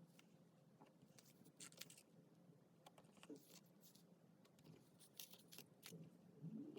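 Faint handling of paper and stickers: a scattered run of light taps, clicks and rustles, about ten of them.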